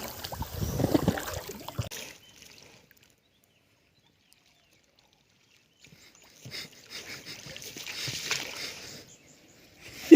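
Water trickling and splashing around a small boat, cut by about three seconds of dead silence in the middle.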